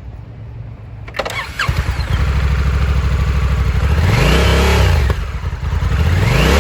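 2022 Honda Africa Twin 1100's parallel-twin engine cranked by the starter, catching about a second and a half in and settling into an idle. It is then revved twice, each blip rising and falling in pitch.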